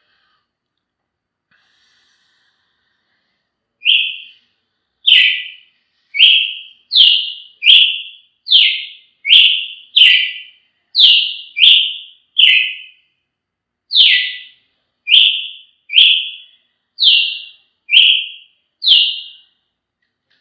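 A Brazilian tanager (tiê-sangue) gives a series of short, sharp call notes, repeated about once a second, starting about four seconds in.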